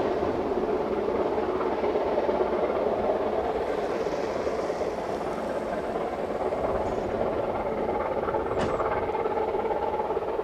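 Narrow-gauge train running steadily, with one brief click about eight and a half seconds in.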